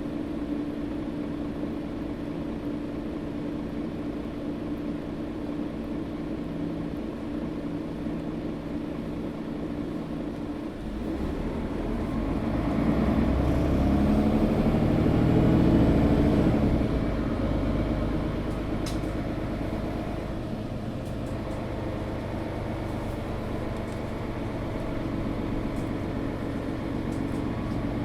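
Mercedes-Benz O530 Citaro facelift G articulated bus heard from inside the passenger cabin: the diesel engine runs with a steady low hum for about ten seconds, then revs up and grows louder with a rising pitch as the bus pulls away and accelerates, before easing back to a steady cruise near the end.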